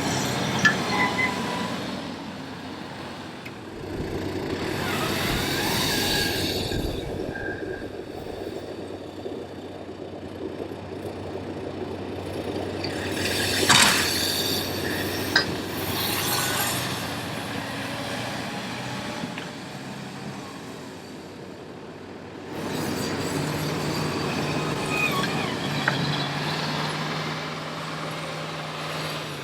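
Heavy vehicles passing on a street: a steady engine hum with swells of passing noise, and a sharp knock about halfway through.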